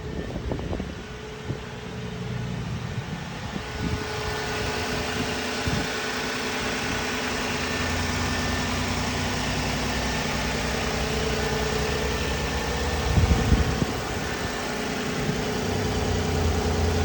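Nissan Maxima engine idling steadily after a cold start, with a hiss that builds a few seconds in and a brief louder thump near the end.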